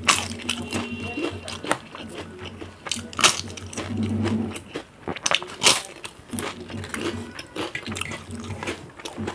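Close-up eating sounds: a person chewing and crunching food, with sharp crackly clicks and wet mouth sounds. A low hum comes and goes underneath.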